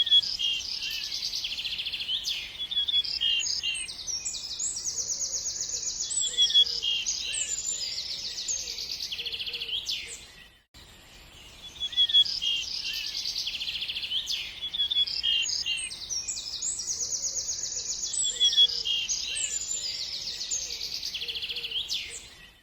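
Songbirds singing: rapid high chirps and trills, with a fainter, lower warbling call now and then. The song drops out briefly about halfway through, then the same passage repeats.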